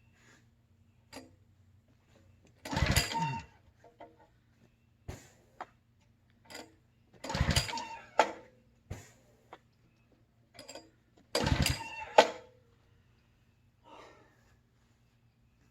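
Three hard pulls on the recoil starter cord of a Simpson gas pressure washer, about four seconds apart. The engine turns over briefly with each pull but does not fire. Lighter clicks and knocks fall between the pulls.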